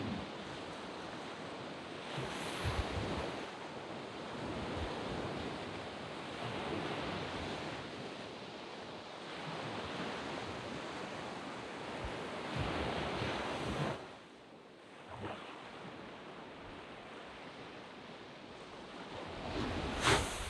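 Small waves breaking and washing up a sand beach, swelling and ebbing every few seconds, with a brief lull about fourteen seconds in and a louder wave breaking near the end. Some wind buffets the microphone.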